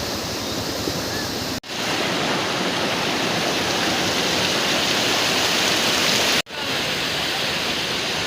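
Waterfall rushing with a steady roar of falling water, cut off for an instant twice, about one and a half and six and a half seconds in, where the clips change. It is a little louder and more hissing in the middle stretch.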